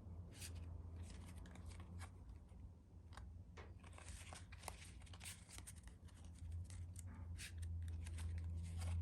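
A deck of playing cards handled in cardistry flourishes: scattered faint clicks and snaps of the cards against each other and the hands, over a steady low hum.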